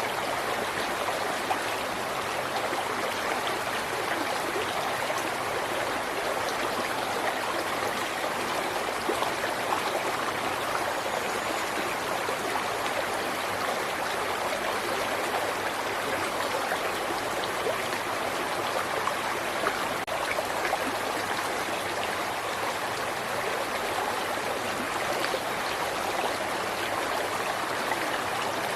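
River water flowing steadily over rocks, a continuous babbling and rushing with no pauses.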